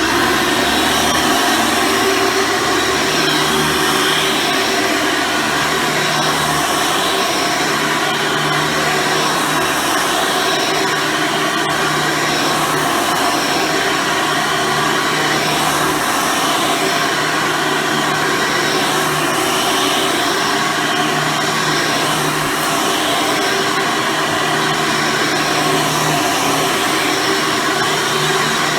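Hoover Soft & Light Supreme upright vacuum cleaner running steadily with its 12-amp motor and brush roll while vacuuming.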